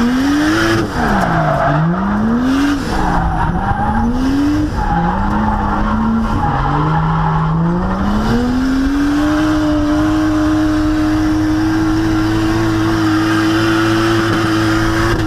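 Drift car engine revving up and falling back in quick waves, then held at high revs for the last several seconds while the tyres squeal through a slide.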